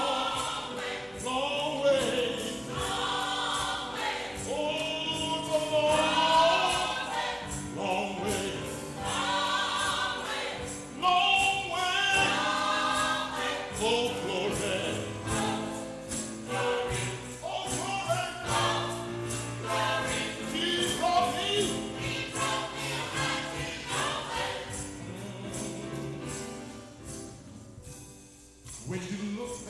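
Church choir singing a gospel song over instrumental accompaniment with a steady percussive beat, fading near the end.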